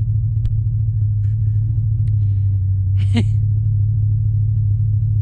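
Pickup truck's engine running with a steady low rumble as it tows sleds along a snowy dirt road. A short cry from one of the riders about three seconds in.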